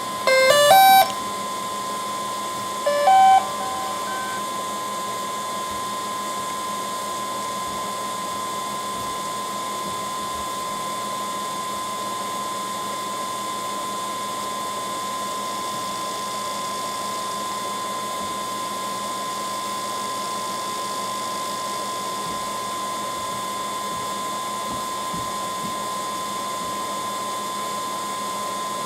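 DJI Phantom 4 Advanced drone powering up: a rising startup melody of beeps in the first second and a short group of beeps about three seconds in. A steady high whine from the powered-on drone follows and holds unchanged.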